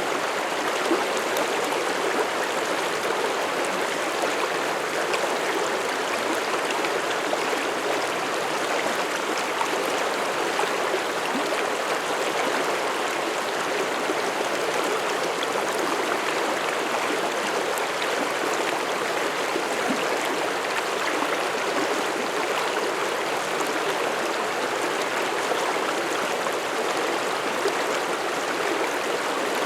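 Mountain stream flowing over rocks: a steady, even rush of water with a gurgle.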